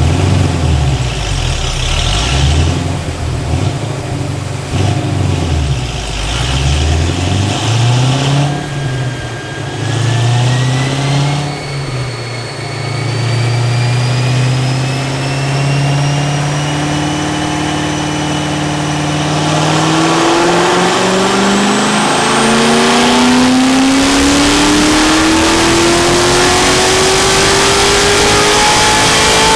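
Corvette 427's 7.0-litre LS7 V8 with ported heads and 2-inch long-tube headers, running on a chassis dyno. The revs rise and fall for the first ten seconds or so, then climb in one long, steady wide-open-throttle pull from about twelve seconds in. This is a power run made after more ignition timing was added.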